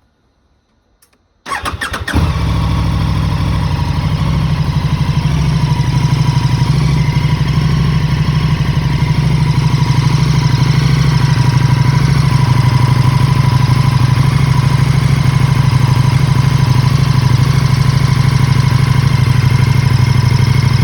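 KTM 1290 Super Duke RR's V-twin engine started through a Spark Konix Evo titanium exhaust: the starter cranks briefly about a second and a half in, the engine catches, then it idles steadily.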